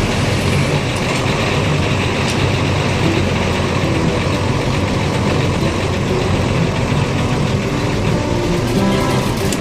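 Lorry diesel engine running, heard from inside the cab as a steady, loud low rumble with rattle and road noise.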